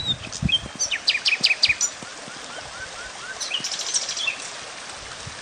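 Several small birds chirping and calling: a quick run of sharp high chirps about a second in, a row of short repeated notes after it, then a burst of high trills near four seconds, over a steady hiss.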